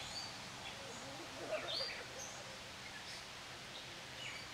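Several wild birds chirping in short, scattered calls over a steady background hiss, with one louder chirp about one and a half seconds in.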